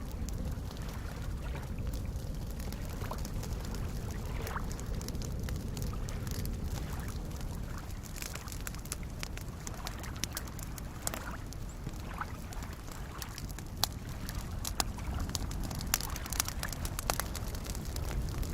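Campfire crackling with scattered sharp pops over a steady wash of soft lake waves; the crackles grow busier in the second half.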